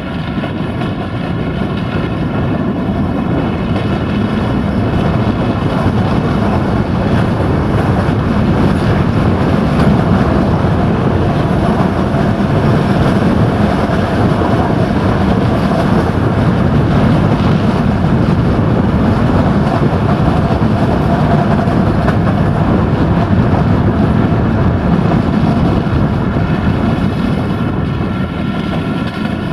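Passenger train heard from an open coach window at speed: the GM diesel locomotive at the head drones steadily over the continuous rumble of wheels on the rails.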